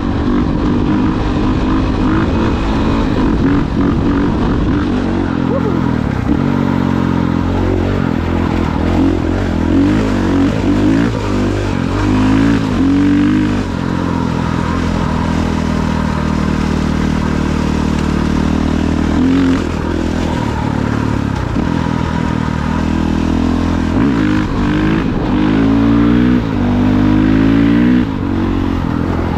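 Off-road vehicle engines running under load, revving up and down again and again as the riders work the throttle.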